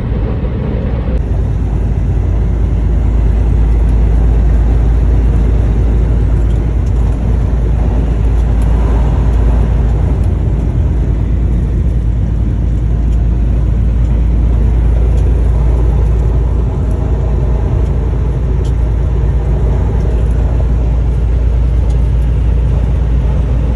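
Steady low rumble of a semi-truck driving at highway speed, engine and road noise heard from inside the cab.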